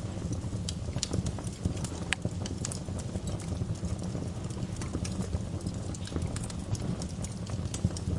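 Wood fire burning in a fireplace: a steady low rumble with irregular crackles and pops from the logs, one sharper pop about two seconds in.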